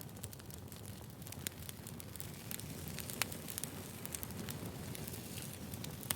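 Wood fire burning: a steady low rumble with frequent small crackles and pops from the burning logs, one sharper pop about halfway through.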